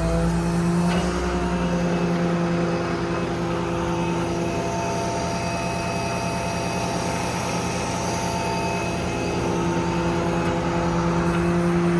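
An engine running steadily at constant speed, a level hum with no revving.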